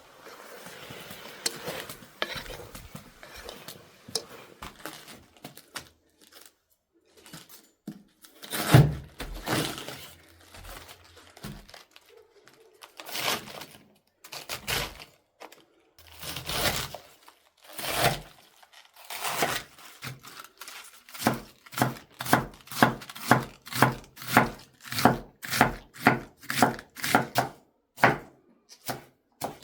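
Food being prepared by hand: scattered knocks of utensils and rustling, then a steady run of sharp strokes, about two a second, that stops just before the end.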